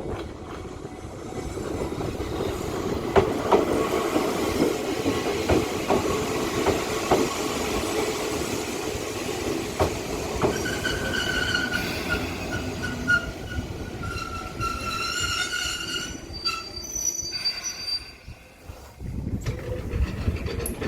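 Toyama Chihō Railway electric train rolling over the track with a clack of the wheels at the rail joints, then its wheels squealing for several seconds as it slows into the station. A low rumble follows near the end.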